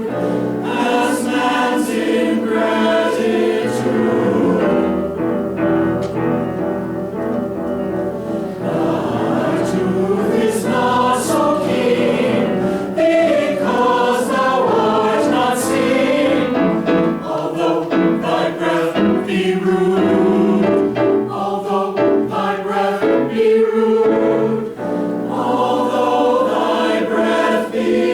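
Community choir singing a choral piece, many voices together in harmony, with crisp sibilant consonants.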